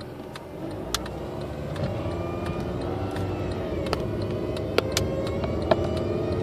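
A 2006 Honda Civic under way, with a whine of thin tones that slowly shift in pitch over engine and road noise, and the overall sound building as the car gathers speed. A few sharp clicks come through about a second in and again in the second half.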